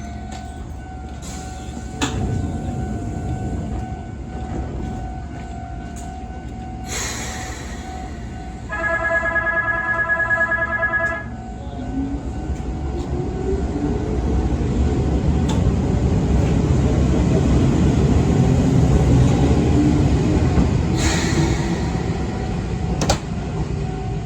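Izuhakone Railway 5000 series electric train sounding its horn for about two seconds, then pulling out of the station. The motor tone rises steadily in pitch and grows louder as it picks up speed, with a few sharp clicks and clunks from the wheels and cars.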